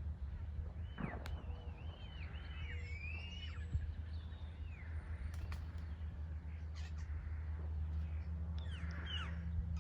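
A bird singing a run of quick, arching whistled notes from about one to four seconds in, with more calls near the end, over a steady low hum.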